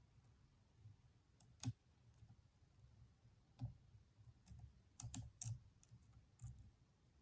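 Faint, scattered metallic clicks of a lock pick and tension wrench working a Stanley padlock: single clicks a couple of seconds apart, with a quick cluster about five seconds in.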